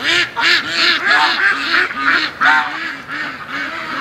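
Domestic ducks and geese calling together: a quick run of short, low quacks, about three a second, under louder, higher goose honks.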